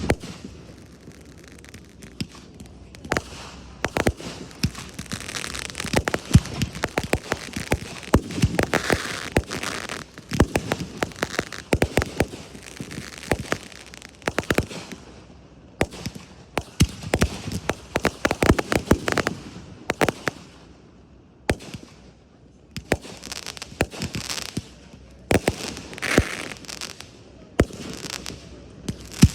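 Aerial fireworks display: many sharp bangs in quick clusters, with crackling and hissing from the bursting shells between them.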